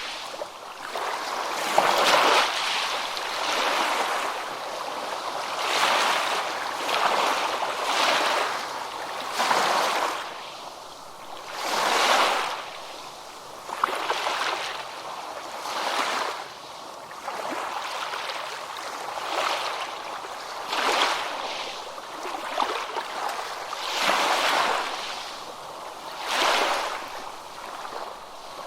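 Ocean waves surging and washing onto a beach, swelling and fading in irregular surges about every one to three seconds.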